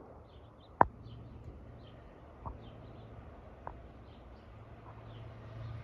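Outdoor ambience: a steady low hum with faint, scattered bird chirps. A sharp click sounds about a second in, followed by a few lighter ticks.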